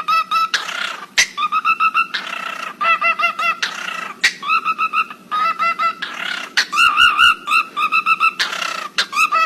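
A bird calling in quick runs of short, repeated pitched notes, broken up by brief hissing sounds.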